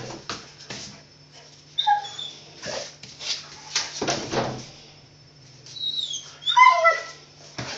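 A playful dog whining and yipping in short high cries, with scuffling noises between them. The loudest cry, between about six and seven seconds in, falls in pitch.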